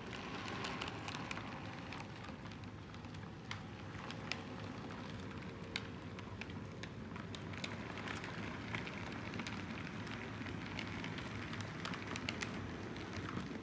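Model train running on the layout's track: a steady crackling rumble of wheels and motor, with irregular sharp clicks as the wheels pass rail joints and turnouts.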